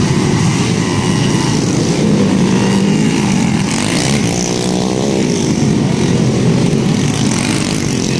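Motocross motorcycle engines running hard, with the engine pitch rising and falling around the middle.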